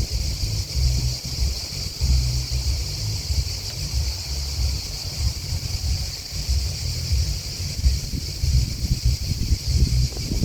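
Grasshoppers and crickets chirring in a steady, high-pitched chorus, with gusts of wind buffeting the microphone as a low, uneven rumble.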